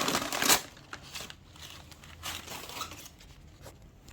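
Packaging being handled as a new starter motor is lifted out of its box: a loud burst of rustling in the first half second, then fainter intermittent crinkling of bubble wrap and cardboard.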